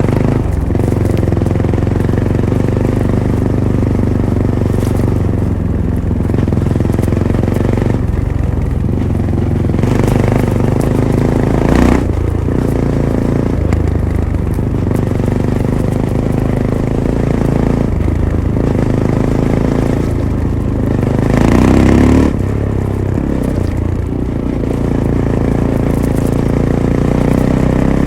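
Fantic Caballero 500's single-cylinder engine running through its stock Arrow exhaust, heard from on board while riding, its note rising and falling with the throttle. A louder burst of throttle comes about three-quarters of the way through, and a few knocks are heard along the way.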